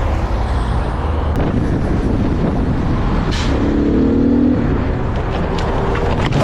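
Motorcycle riding in traffic: a steady rush of engine, road and wind noise. A steady pitched tone sounds for about a second around the middle.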